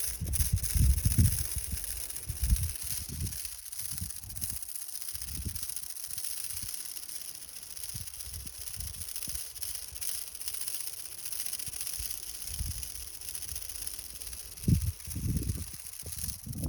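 Strong wind buffeting the microphone in irregular low rumbling gusts, heaviest near the start and again near the end, over a steady high-pitched hiss.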